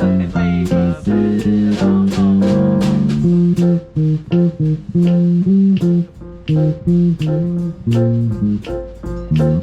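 Jazz band playing, with plucked guitar and bass notes in front in short, detached notes over a quick beat.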